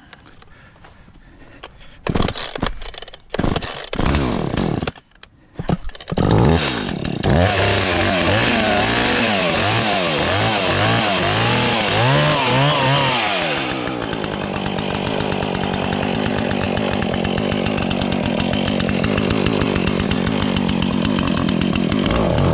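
Husqvarna two-stroke chainsaw being pull-started: a few short bursts as the cord is pulled, then the engine catches about six seconds in and revs up and down for several seconds. It then settles to a steadier idle and cuts off suddenly at the end. The engine is still cold and needs more warming up.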